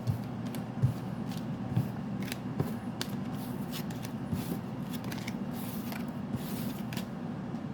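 Tarot cards being shuffled and handled: irregular soft snaps, slaps and rustles of the cards, over a low steady hum.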